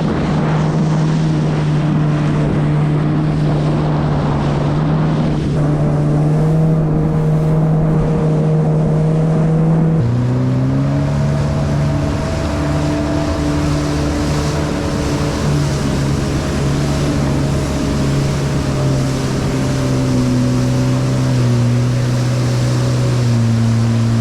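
2018 Yamaha FX HO jet ski's four-cylinder four-stroke engine running at steady cruising throttle, with wind on the microphone and water rushing by the hull. Its note drops about ten seconds in as the throttle is eased, then steps a little lower again near the end.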